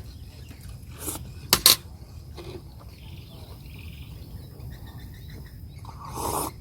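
Cutlery clinking against a plate: a light click about a second in, two sharp louder clinks just after, and a faint one a second later, then a short noisy eating sound near the end.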